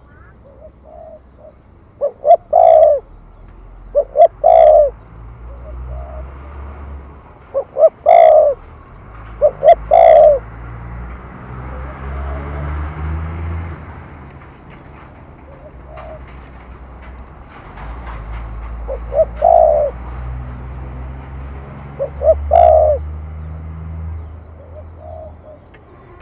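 Spotted dove cooing in the 'thổ thúc gù' style, each phrase a few quick notes running into a longer coo, repeated every two to four seconds with a long pause in the middle. A low rumble runs underneath.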